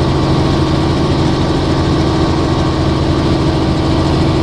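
Helicopter in flight heard from inside the cabin: a loud, steady drone of engine and rotor with an unchanging low hum.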